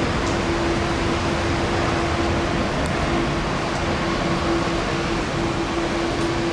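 Boeing 787 jet engines at takeoff power: a steady rushing noise with one held hum, easing slightly toward the end.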